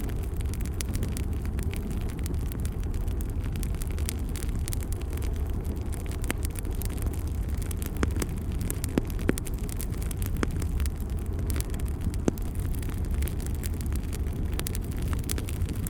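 Bonfire burning: a steady low rumble of the flames with scattered sharp crackles and pops, a few louder ones in the middle.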